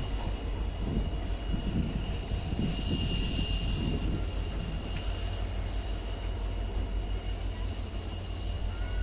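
Train running along the track: a steady low rumble with uneven low thuds in the first few seconds and a faint, steady high whine above.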